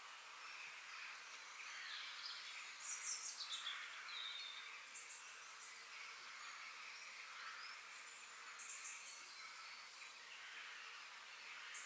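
Faint forest ambience: several small birds chirping and trilling over a steady high hiss, with clusters of quick high chirps about three seconds in and again near nine seconds.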